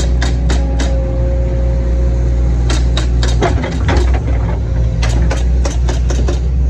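CAT 312 excavator's diesel engine running steadily, with a series of sharp knocks and clanks from the machine as it works dirt during backfilling and grading.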